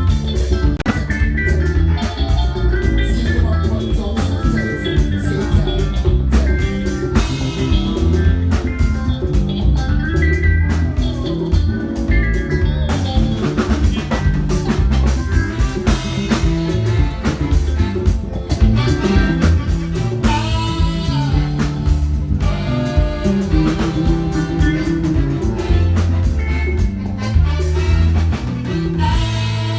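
A band playing: guitar, bass and drum kit with a steady beat, with some singing.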